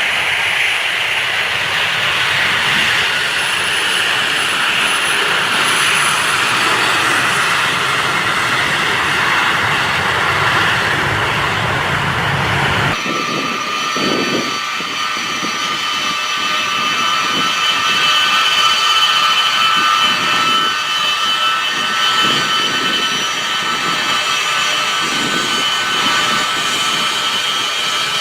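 Military transport aircraft engines running loud with a continuous rushing roar. About halfway through, the sound changes abruptly to a turbine whine with several steady high tones over the roar.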